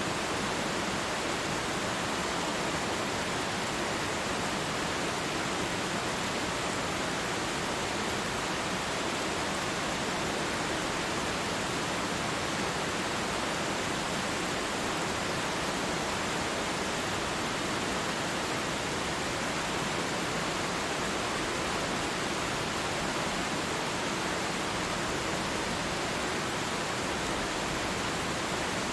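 Waterfall rushing in a steady, even roar of falling water, with no change and no separate sounds.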